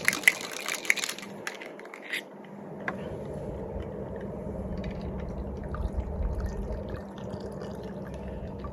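Ice rattling hard in a cocktail shaker, stopping about a second and a half in, followed by a couple of single clinks and then the shaken martini being strained and poured out, a soft trickle with faint drips.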